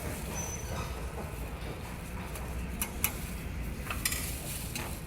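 A spoon stirring beaten egg mixture in a bowl to mix in the added oil, with a few light clinks of the utensil against the bowl.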